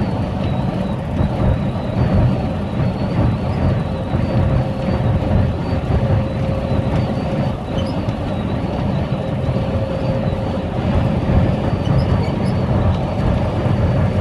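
Steady road and engine noise of a car travelling at highway speed, with a faint steady tone running through it.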